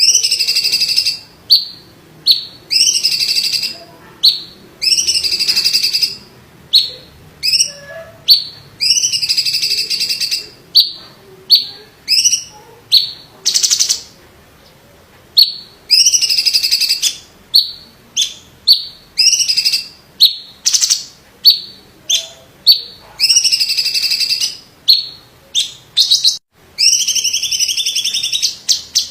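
Cucak ijo (greater green leafbird) of the 'cungkok' type singing loudly. It repeats phrases about a second long that fall and then rise in pitch, with short sharp chips between them and a brief pause about two-thirds of the way through.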